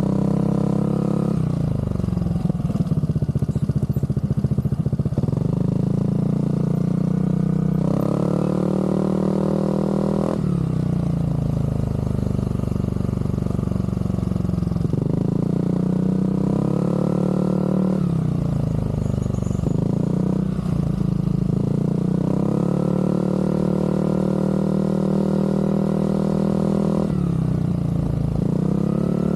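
Aprilia SR GT scooter's single-cylinder engine running through a Zard aftermarket exhaust. It gives a raw, crisp exhaust note that rises and falls in pitch several times as the throttle is opened and eased off.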